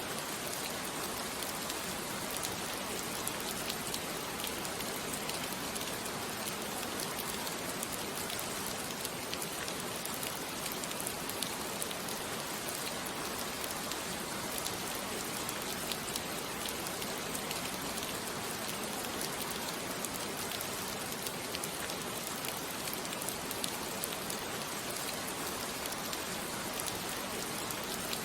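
Steady rain falling, a dense patter of drops on a surface with no thunder.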